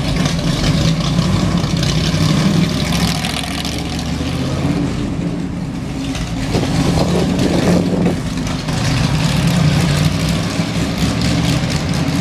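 Car engine running steadily with a low, even drone.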